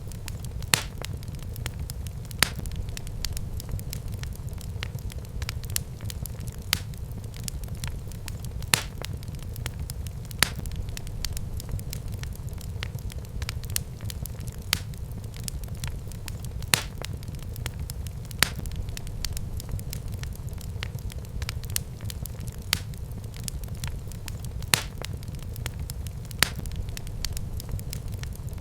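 Fireplace fire burning and crackling, with sharp pops every second or two over a steady low rumble of the flames.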